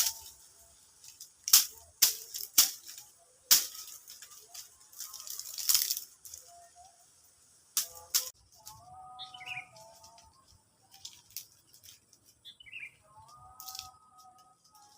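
A run of sharp cracks and crunches, loudest in the first half. Then a bird calls twice, briefly, once in the middle and once near the end.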